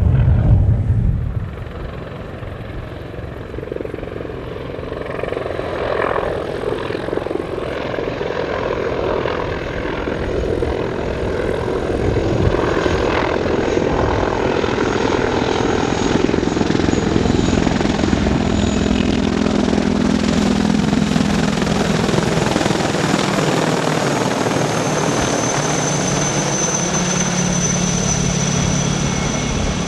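Helicopter flying manoeuvres. Its engine and rotor noise grows louder over the first half, with engine tones sliding up and down in pitch as it moves. A high whine comes in near the end.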